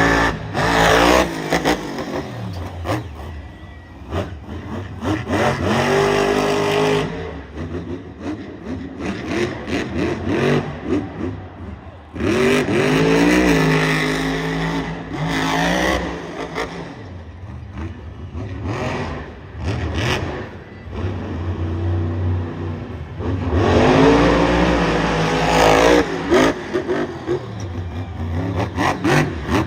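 Monster truck engine revving hard in repeated surges, its pitch climbing to a peak and dropping back several times.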